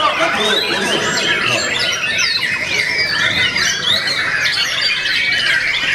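Several caged songbirds singing at once, a dense, unbroken tangle of loud whistles, rising and falling glides and chirps.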